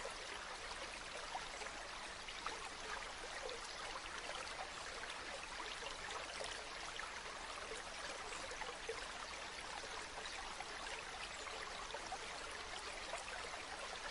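River water flowing and babbling over rocks, a steady rush with small splashes running through it.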